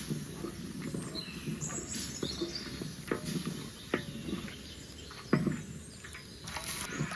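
Irregular knocks and clicks over rustling handling noise, the sharpest knock about five seconds in, with a few short bird chirps.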